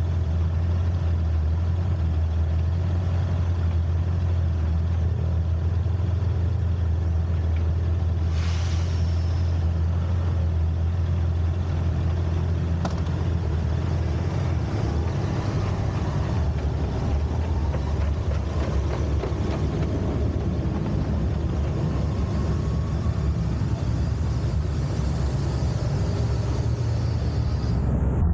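A vehicle's engine and road noise while driving: a steady low drone that becomes less even about halfway through, with a brief high chirp about eight seconds in.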